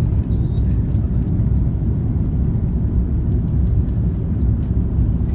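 Steady low rumble inside the cabin of an Airbus A340-313 during landing, from its four CFM56-5C4/P engines and airflow over the airframe. The noise holds at an even level with no thump or surge.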